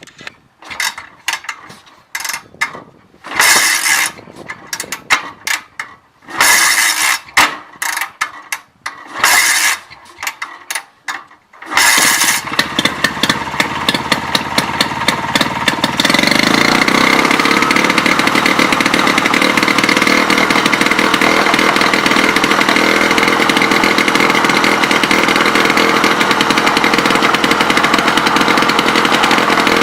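Old diesel engine being started: irregular noisy bursts and knocks for the first dozen seconds, then it catches about twelve seconds in and runs loudly and steadily with a fast, even beat.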